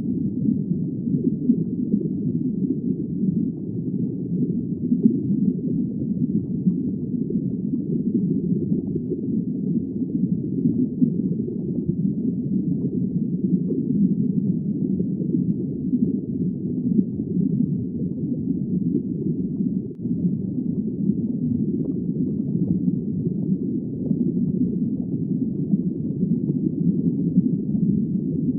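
Steady, muffled underwater ambience: a low, even rumble of water noise with no high sounds and no distinct calls.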